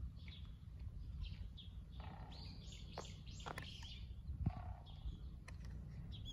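Small birds chirping and calling: short high chirps repeating throughout, with a brighter cluster of calls about three seconds in. A low steady rumble runs underneath.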